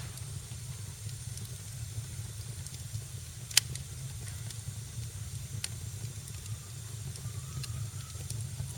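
Wood fire crackling in a fireplace: a steady low rumble and hiss with scattered small pops, and one sharp, loud pop about three and a half seconds in.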